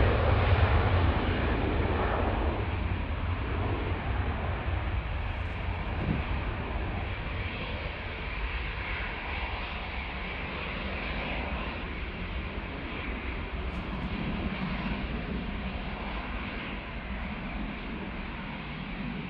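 Boeing 737-800's CFM56 jet engines at takeoff power, a steady rumble fading away as the airliner climbs out after departure.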